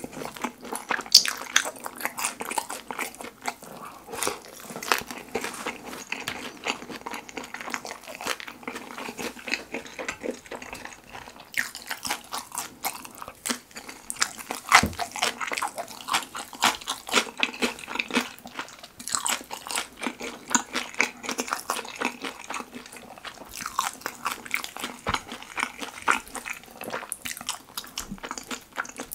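Close-miked ASMR chewing of kimchi pizza tangsuyuk, sauce-coated battered fried pork with cheese: a dense, irregular run of wet, sticky mouth clicks and crackles.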